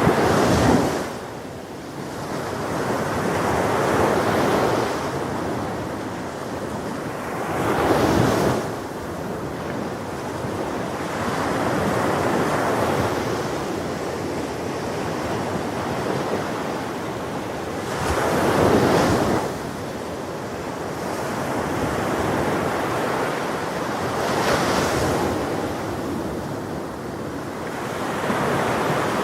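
Ocean waves breaking on a shore, with a continuous wash of surf between breaks. Louder breakers come about four times, several seconds apart.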